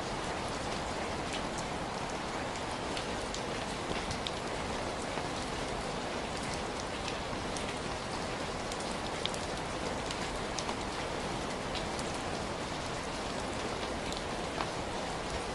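Heavy rain falling steadily, a dense even hiss with scattered sharper drop hits on a surface.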